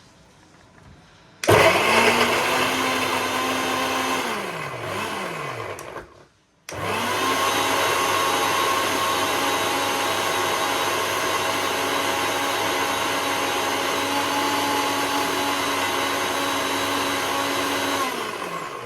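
Electric mixer grinder blending garlic into paste, run twice. A short first run winds down with a falling whine, then after a brief pause a longer, steady run spins down at the end.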